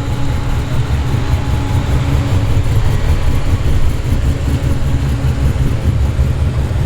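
Deep, steady low rumble of a Holden VK Commodore SS's V8 engine at low revs as the car rolls slowly past.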